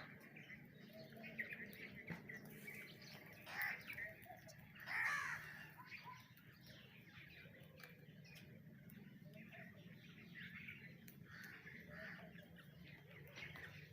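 Several birds calling and chirping, with a few louder harsh calls about three and a half and five seconds in.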